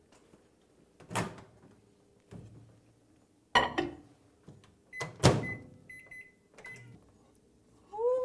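Microwave oven being loaded and set: a few knocks and clunks of the door and glass bowl, the loudest about five seconds in, then a short run of high electronic keypad beeps as the cooking time is entered.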